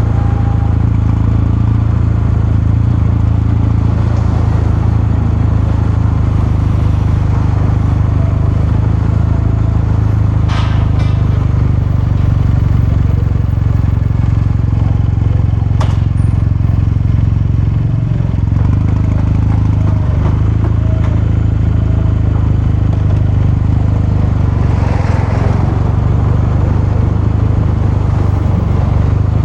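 Kawasaki Meguro K3's 773 cc air-cooled parallel-twin engine and exhaust running at a steady, unchanging engine speed. Two brief sharp clicks come about ten and sixteen seconds in.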